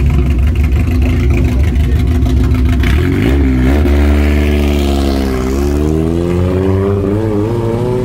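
Classic rally car engine idling steadily, then revved from about three seconds in, its pitch climbing, dipping and climbing again.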